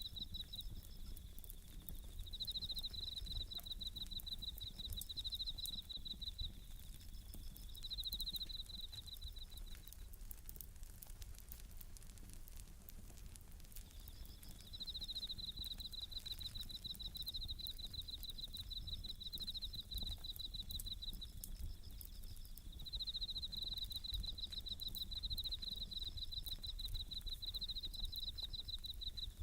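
Japanese bell crickets (suzumushi) singing in high, pulsing trills that come in bouts, falling silent for a few seconds about a third of the way in and then resuming, over the light crackle of a wood fire.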